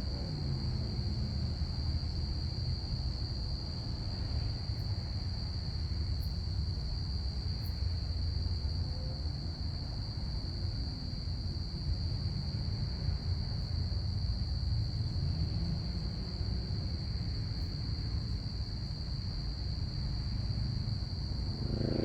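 Crickets chirping in a steady, unbroken high chorus over a low, steady rumble.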